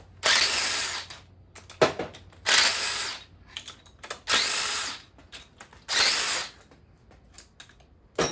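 Power drill spinning loosened cylinder-head bolts out of an engine block in four short runs, with bolts and tools clinking between runs.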